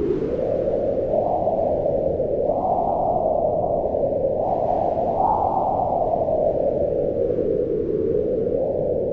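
Mountain wind howling, a low, steady rushing whose pitch swells and sinks in slow gusts, highest about five seconds in and dropping away near the end.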